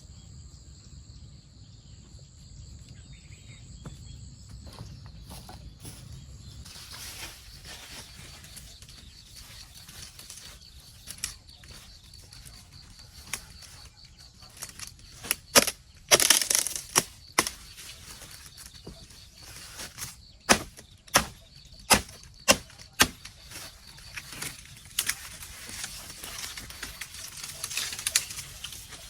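Rustling of brush and leaves, then about halfway in a run of sharp knocks, some in quick succession, the loudest in the whole stretch.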